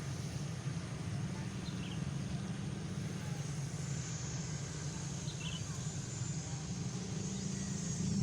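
Small electric propeller motors of a homemade model airplane built from TXD8S toy-drone motors, running with a steady drone.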